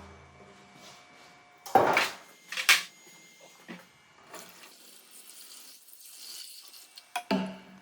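Water running and splashing, with a few sharp knocks and clatters of something being handled about 2 seconds in and again near the end.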